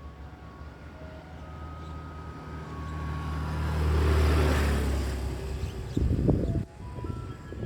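A road vehicle passing by: a low rumble that grows louder, peaks about four seconds in, then fades away. This is followed by a few loud knocks or bumps about six seconds in.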